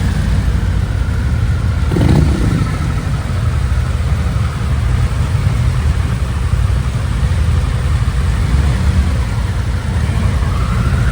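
Harley-Davidson motorcycle engine running with a steady low rumble. About two seconds in there is a brief falling pitch sweep.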